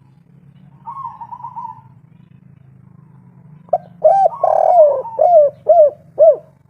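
Spotted dove (tekukur) cooing. About a second in comes a soft quick run of notes. From near the four-second mark a full song phrase follows: short coos, a longer drawn-out coo, then three separate closing coos, the 'kuk 3' ending. A steady low hum runs underneath.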